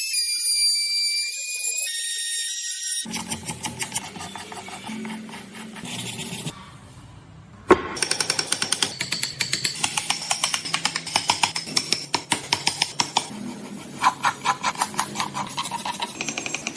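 A high electronic melody for the first few seconds, then rapid, close-set tool strikes on wood in a building workshop, with one loud knock about halfway through.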